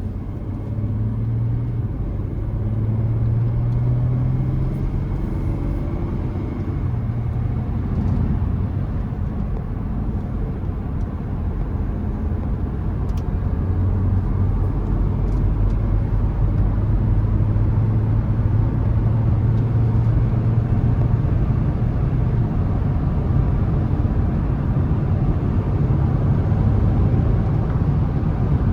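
Audi A5 50 TDI's V6 diesel engine running steadily under way, over a haze of tyre and road noise. The low engine note shifts in pitch and grows somewhat louder from about halfway.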